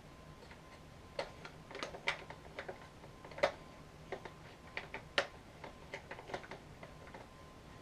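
Irregular light clicks and taps of the upright vacuum cleaner's parts being handled, a couple of them sharper knocks.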